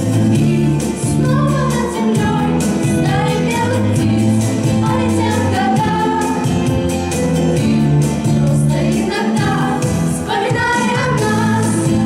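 Voices singing a pop song over instrumental accompaniment with a steady beat.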